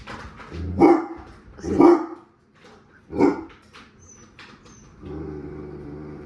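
Dog giving three loud alarm barks at shoes that frighten him, then a steady low growl near the end.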